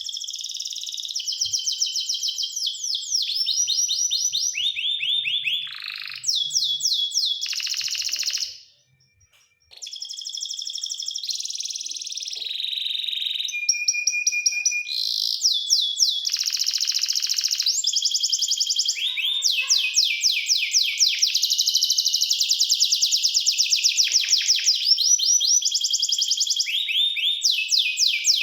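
Domestic canary singing: a long song of fast rolling trills and rapid repeated notes, broken by a short pause and a brief steady whistled note near the middle.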